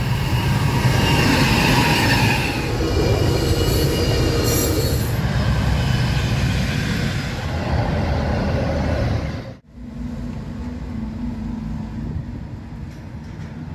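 Train noise: a loud rumble with a high metallic wheel squeal through the first part. About two-thirds through it cuts off abruptly to a quieter diesel locomotive sound with a steady low engine hum.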